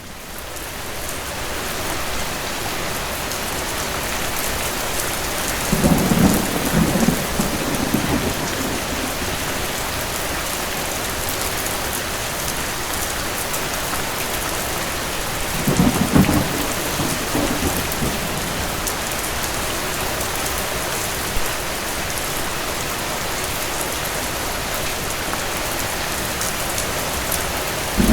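Steady heavy rain, swelling up over the first couple of seconds, with two low rolls of thunder: one about six seconds in and another about sixteen seconds in, each rumbling for about two seconds.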